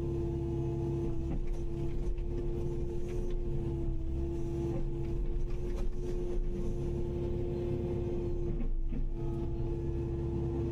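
Kubota KX080-5 mid-size excavator running steadily under work: a constant droning tone over low rumble, with a few faint knocks and a brief dip in the sound near the end.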